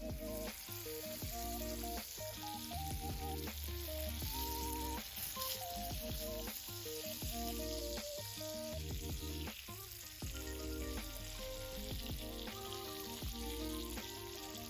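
Pork-belly-wrapped king oyster mushrooms sizzling steadily as they fry in a pan, heard under background music with a melody.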